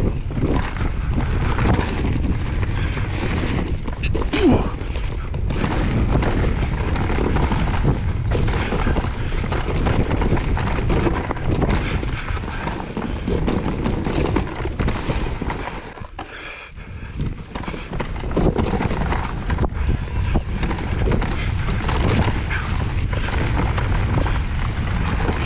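Wind buffeting the microphone over tyre and trail noise from a mountain e-bike riding a woodland trail, with frequent knocks and rattles from bumps. The noise drops away briefly about two-thirds of the way through, then picks up again.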